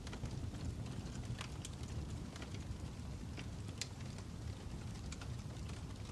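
Fire crackling: a steady low rumble with sharp, irregular pops and snaps, about two or three a second.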